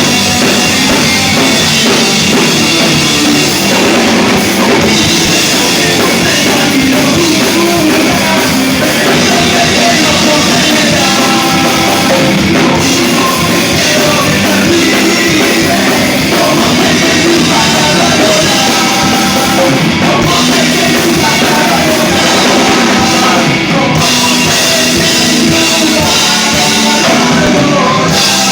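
A rock band playing live and loud: distorted guitars, bass and drum kit, with singing.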